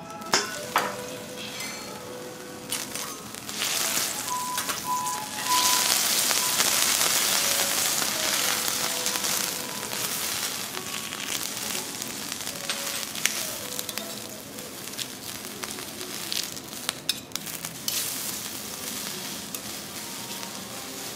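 Food sizzling on a hot teppanyaki iron griddle. It starts with a couple of sharp clicks, grows much louder from about four seconds in, and eases off again after about ten seconds.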